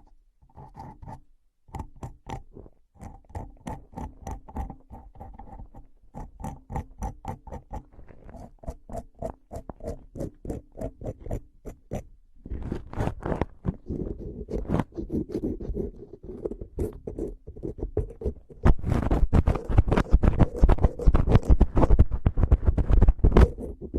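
Rapid tapping and scratching on an object, several taps a second. The early taps carry a held ringing tone; the taps grow denser and louder about halfway through and louder again near the end.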